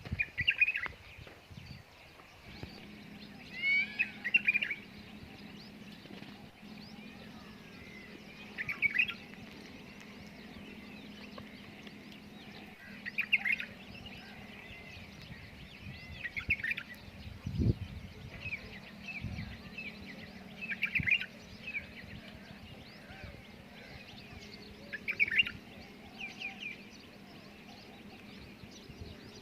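Birds chirping in short bursts of quick high notes, recurring about every four seconds over a faint steady hum, with a single low thump about two-thirds of the way through.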